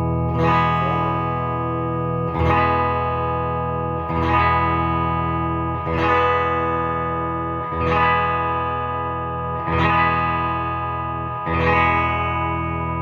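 Electric guitar through an amp, the Gibson Les Paul's bridge P90 pickup with its tone knob rolled down to about 3: the same chord strummed seven times, about every two seconds, each left to ring. A darker setting of the tone control, which the player calls a little muddy in this range.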